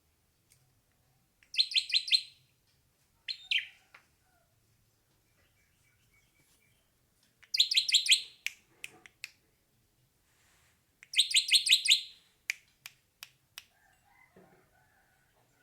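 Hair-crested drongo calling: three short bursts of five or six quick, high notes, each under a second long and several seconds apart, with a single shorter note after the first burst and a few sharp clicks after the last.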